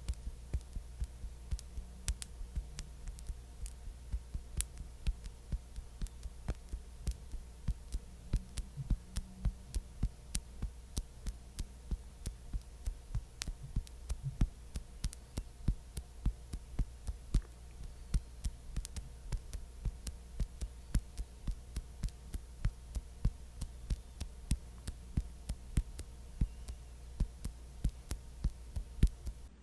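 Quick, even tapping or patting, about three to four light taps a second, over a steady low hum.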